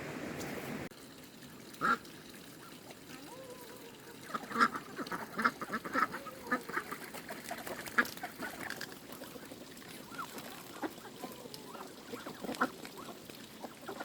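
Farm birds calling in short, repeated calls with scattered sharp clicks, busiest in the middle; a steady background noise cuts off about a second in.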